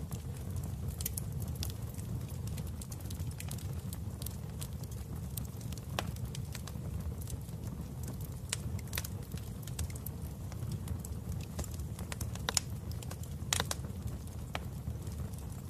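Wood fire burning in a fireplace: a steady low rumble of flames with scattered sharp crackles and pops, and a couple of louder snaps toward the end.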